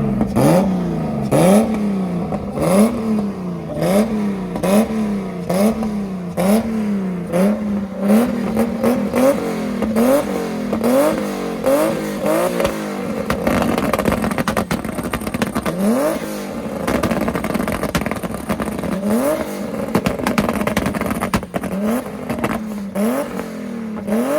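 Car engine revved over and over, each rev climbing in pitch and dropping back, about once every second and a bit; after about nine seconds the revs become more irregular, with single rises now and then.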